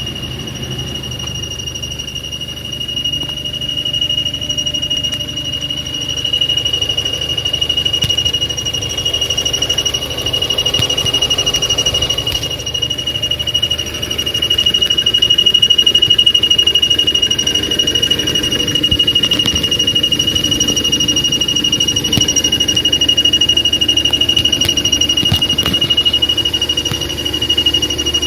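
A continuous high-pitched whistle holding one steady pitch over a low hum. Its source is unknown: the owner is asking others what is whistling and squeaking because he cannot find it.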